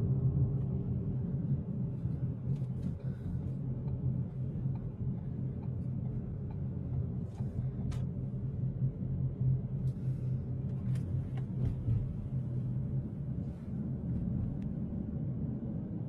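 Steady low rumble of a vehicle's engine and road noise heard from inside a moving car, with a few faint clicks.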